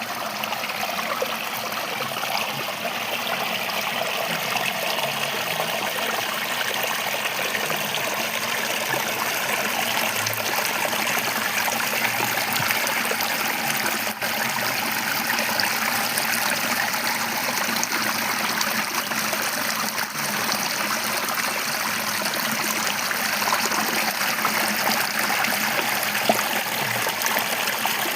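River water flowing and splashing steadily over rocks, a continuous rushing and trickling.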